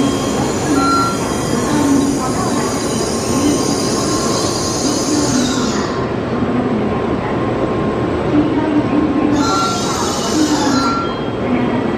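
Tokaido Shinkansen train running along the station platform: a steady rumble of wheels and running gear. A high hiss fades out about halfway through and comes back briefly near the end. A few short beeps sound over it.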